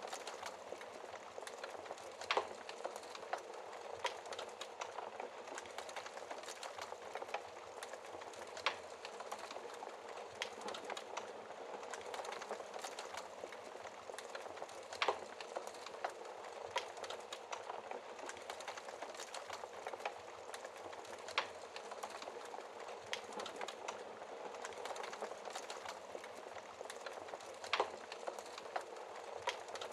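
Fire crackling in a fireplace: a steady hiss full of small crackles, with a louder pop every five or six seconds.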